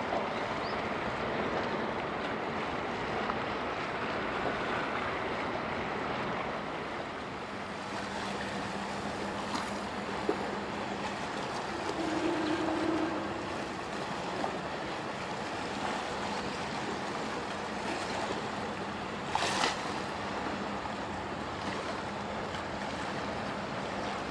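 Steady wash of wind and sea water at the shore. About a third of the way in a low, steady hum joins it. A brief louder rush comes about three quarters of the way through.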